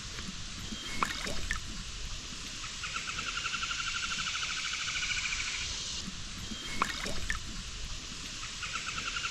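Creek water trickling and sloshing around someone wading, with a sharp knock or splash about a second in and another near seven seconds. A high, finely pulsed insect trill runs for about three seconds from around three seconds in and starts again near the end.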